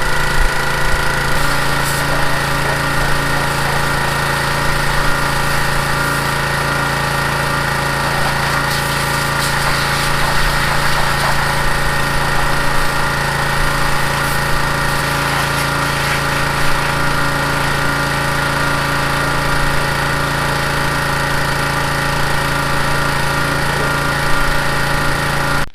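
Pressure washer running steadily, its motor and pump droning under the hiss of the water spray, cutting off suddenly at the end.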